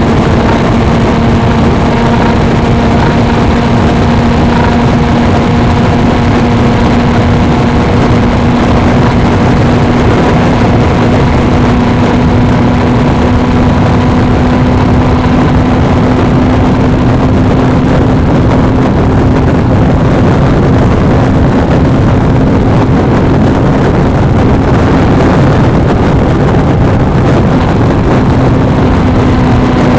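Suzuki V-Strom 250's parallel-twin engine running steadily at a constant cruising pace, its engine note holding almost level, with wind and road rush heard through an action camera's microphone.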